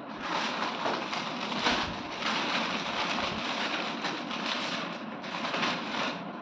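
Rustling and crackling of the ceiling fan's packaging being handled as the parts are unpacked, coming in irregular surges.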